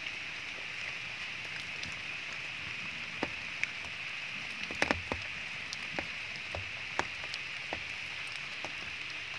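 Steady rain hiss with scattered sharp ticks of falling drops, the loudest few clustered about five seconds in.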